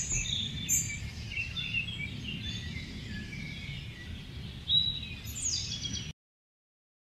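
Several birds chirping, with quick overlapping high calls, over a steady low rumble; the sound cuts off suddenly about six seconds in.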